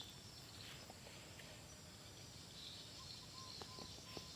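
Faint outdoor ambience: insects trilling steadily in the high register, with a few short faint chirps in the second half and occasional light ticks.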